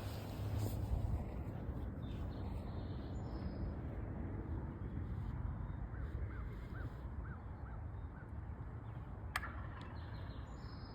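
A bird calls a run of about six short, evenly spaced arched notes, about three a second, over a steady low rumble. One sharp click comes near the end.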